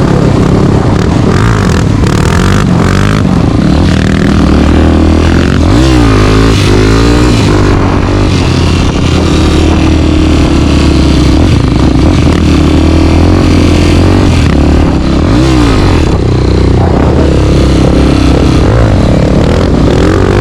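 Single-cylinder four-stroke dirt bike engine running loud and close under way, its pitch rising and falling repeatedly as the throttle is opened and closed.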